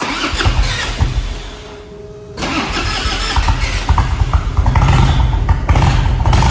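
A 1998 Harley-Davidson Electra Glide Ultra Classic's Evolution V-twin is cranked over and started. The engine catches about two and a half seconds in and keeps running with a low rumble, which gets louder near the end.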